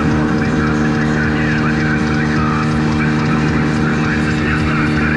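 Gladiator 9.9 hp outboard motor running steadily at constant speed, with water rushing and splashing along the hull of the small boat under way.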